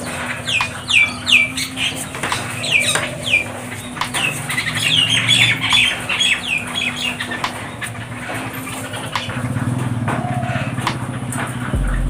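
Mynas and jungle babblers on a corrugated metal roof: a quick run of short, harsh, falling calls in the first few seconds and a burst of chattering around the middle, with wing flaps and sharp taps throughout. A low rumble rises in the last few seconds.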